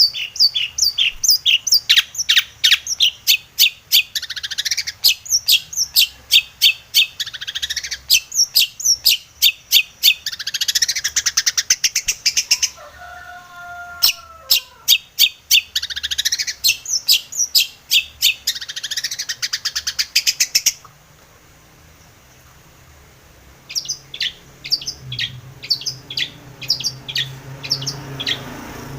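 Long-tailed shrike (cendet) singing: rapid runs of sharp, high chattering notes broken by short pauses. A brief lower warbling call comes near the middle, and the song stops for about three seconds before the notes start again.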